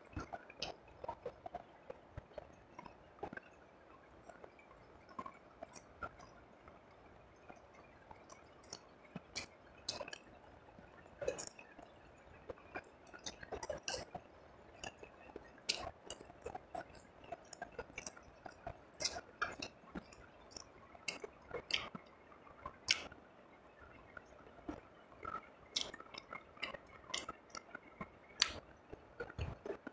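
Close-miked chewing and mouth sounds of a person eating fried rice and fried snakehead fish by hand: irregular wet clicks and smacks, some louder bites, spread through the whole stretch.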